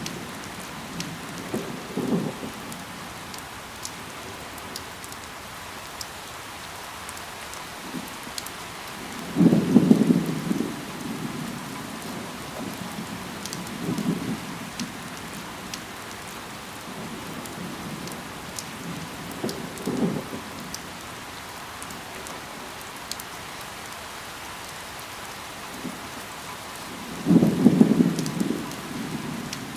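Steady rain falling on leaves, with scattered sharp drop ticks. Five or six short, louder low rumbling bursts come through it, the loudest about ten seconds in and again near the end.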